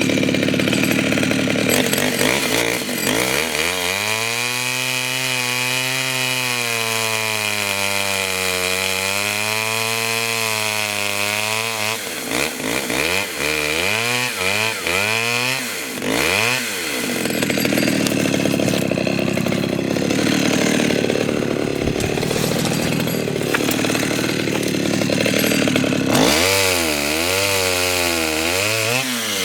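Pioneer P20 two-stroke chainsaw running during a felling cut into a maple. The engine pitch wavers and revs up and down several times, with a longer, rougher, steadier stretch under load in the cut.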